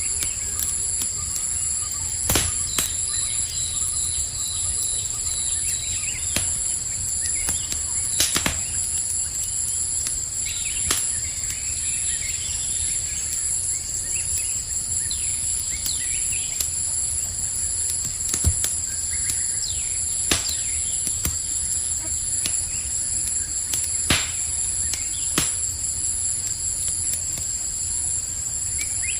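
Campfire crackling, with a sharp pop every few seconds, over a steady high-pitched chorus of night insects and a few faint bird chirps.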